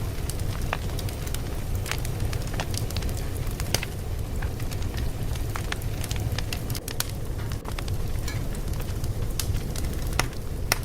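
Fire crackling: irregular sharp pops and snaps, several a second, over a steady low rumble of burning.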